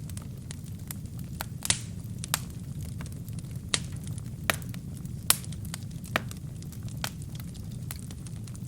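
Wood fire burning in a fireplace: sharp irregular crackles and pops from the burning logs over a steady low rumble of the flames.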